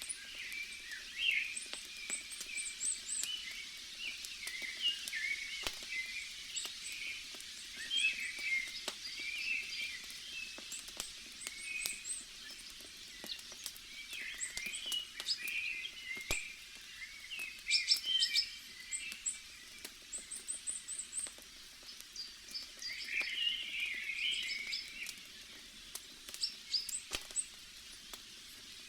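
Birds chirping and twittering on and off, over the scattered sharp crackles and pops of a campfire and a steady soft hiss of forest ambience.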